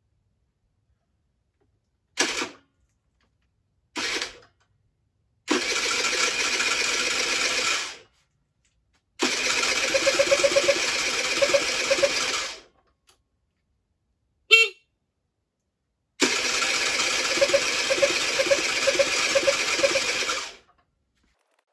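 A 50cc two-stroke engine being cranked over by its electric starter in repeated bursts, two short ones and then several of three to four seconds, with about four pulses a second. It never catches: the engine won't start.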